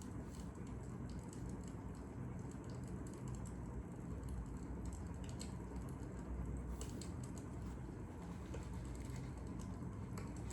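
Fire crackling: a steady low rumble with irregular small pops and snaps scattered through it, a few clustering around the middle.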